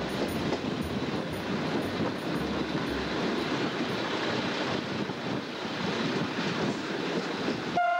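Steady running noise of a moving train heard at an open carriage window, wind and wheel rumble mixed into an even rush, aboard a pair of ALN 663 diesel railcars.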